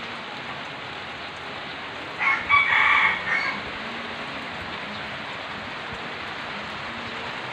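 Steady heavy rain, with a rooster crowing once, loud, for about a second and a half from about two seconds in.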